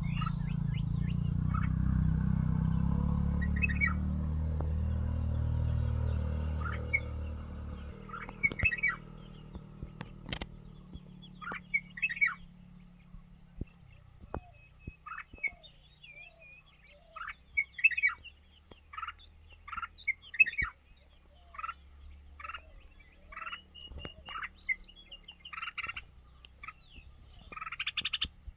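Birds chirping, with many short calls repeated throughout. For the first several seconds a loud low rumble lies under them, and it dies away to a faint hum a few seconds later.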